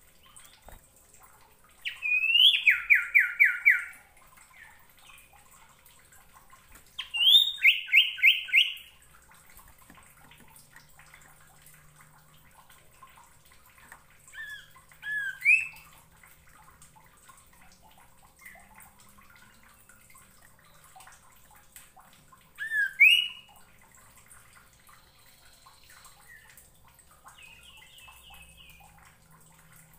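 Common iora calling in bursts: twice a rising note followed by a fast run of about eight repeated notes, then short two- and three-note calls spaced out over the rest.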